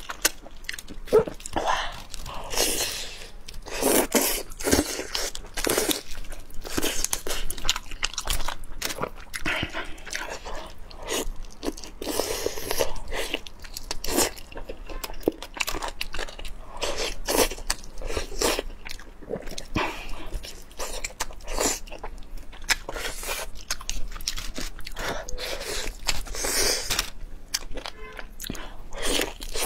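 Close-miked eating of tender steamed chicken: biting and chewing with frequent short, wet clicks and smacks.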